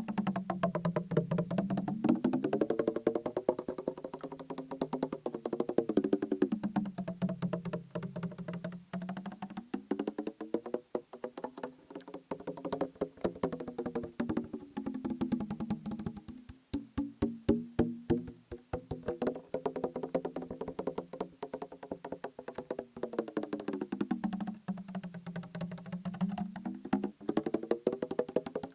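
Rapid fingertip tapping on a liquid-filled plastic bottle, its hollow ring sliding down in pitch and back up every few seconds. A run of slower, heavier knocks comes just past the middle.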